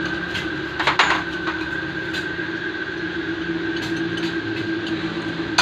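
A steady mechanical drone with a constant pitch, broken by sharp metallic clinks, one about a second in and a couple more near the end.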